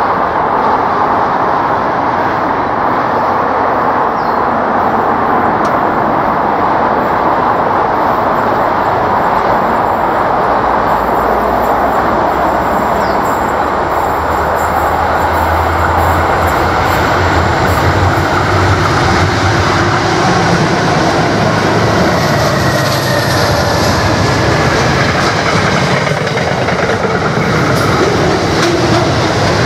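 Container freight train hauled by NR class diesel-electric locomotives passing close by. The locomotives' engine rumble builds to its loudest about halfway through as they go past, then the container wagons roll by with a steady noise of wheels on rails.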